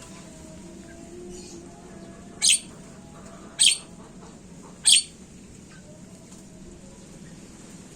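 Javan myna (jalak kebo) giving three short, harsh squawks, a little over a second apart, over faint background birdsong.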